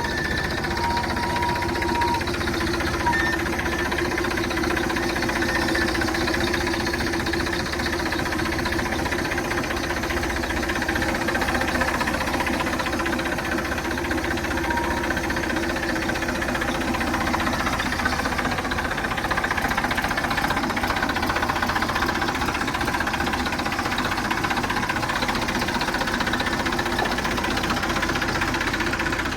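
A heavy diesel engine running steadily at an even speed.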